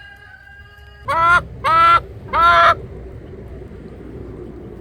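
Three loud, honking calls from a poultry bird, each under half a second, one right after another.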